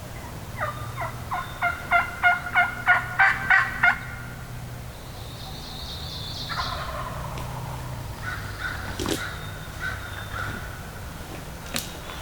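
Turkey yelping: a run of about a dozen loud, evenly spaced notes, each dropping in pitch, over roughly three seconds, followed by softer turkey calls and a couple of light clicks.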